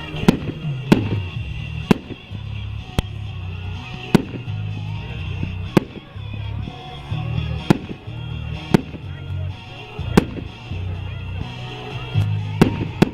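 Display fireworks going off, about ten sharp bangs and cracks at uneven intervals of roughly a second, over music with a steady bass line played across the field.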